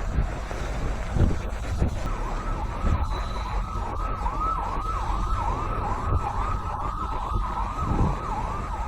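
An emergency vehicle's siren sweeping rapidly up and down, a little over two cycles a second. It starts about two seconds in and stops near the end, over a steady low rumble of road traffic.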